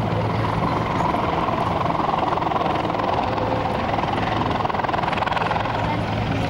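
Helicopter running steadily nearby, a constant low hum under a loud rushing noise.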